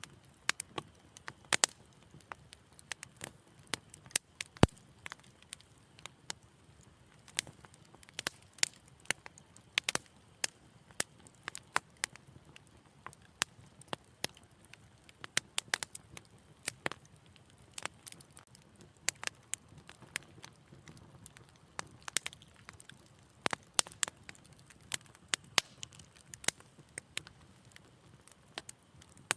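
Wood fire burning in a fireplace, crackling with irregular sharp pops and snaps over a faint low hiss, one pop a little under five seconds in louder than the rest.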